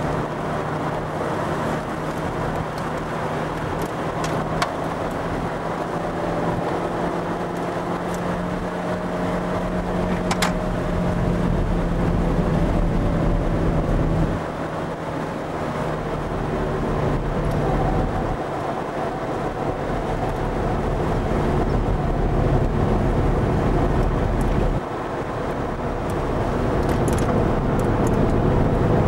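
Ferrari V8 sports car engine heard from inside the cabin at racing speed, with road and wind noise. The engine builds under acceleration, drops suddenly twice, about fourteen and twenty-five seconds in, then builds again.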